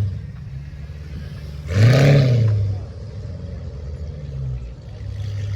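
Car engine idling with one hard throttle rev about two seconds in, its pitch rising and falling back within a second.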